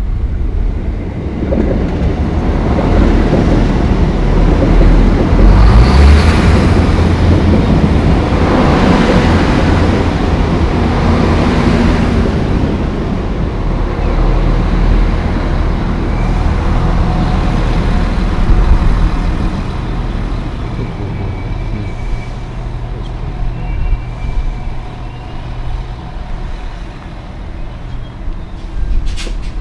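Diesel multiple-unit passenger train passing close underneath, its engines running with a steady low tone under the noise of the wheels on the rails. The sound is loudest in the first half, then eases off as the train draws away down the line.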